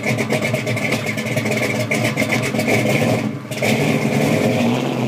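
Car engine running with a rapid, even pulsing exhaust note, dipping briefly about three seconds in and then running steadier.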